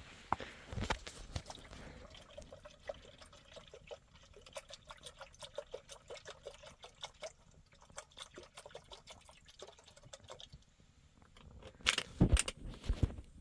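Liquid being poured, with many small splashy ticks, followed by a few loud knocks near the end.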